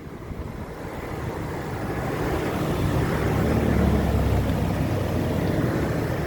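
A road vehicle passing by, its tyre and engine noise swelling to a peak about four seconds in and then easing off.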